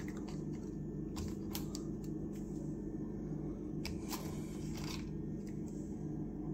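Steady low electrical-type hum with faint scattered clicks and light handling noise.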